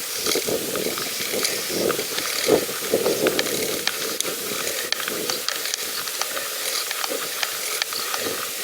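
A pedal bicycle being ridden: a steady hiss with many light, scattered clicks and rattles, and some low bumps in the first few seconds.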